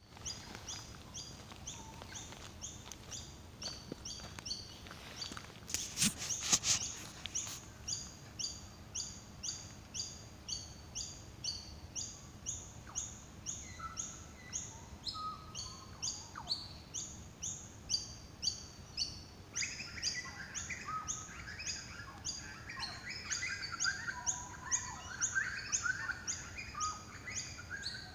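Small birds chirping: a steady series of short, high chirps about twice a second, joined by other birds twittering lower in pitch from about twenty seconds in. A few sharp clicks sound around six seconds in.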